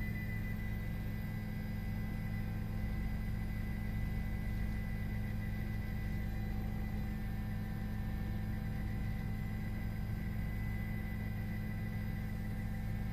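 Steady low mechanical drone with faint steady high tones above it, unchanging throughout.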